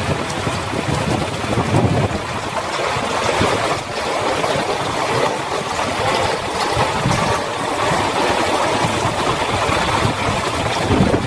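Heavy rain falling steadily, with low rumbles swelling now and then.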